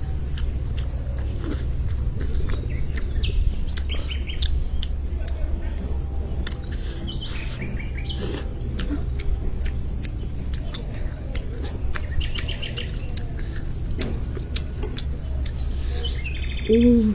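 Small birds chirping in short repeated trills every few seconds over a steady low rumble, with scattered small clicks and a brief low voiced sound near the end.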